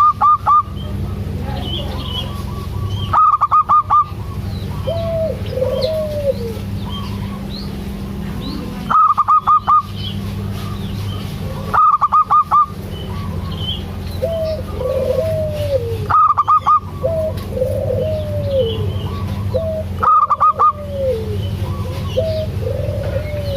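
Zebra doves (perkutut) cooing in arching, rolling notes. Every three to four seconds this is cut across by a louder, fast run of about seven short high pulses lasting under a second. A steady low hum runs underneath.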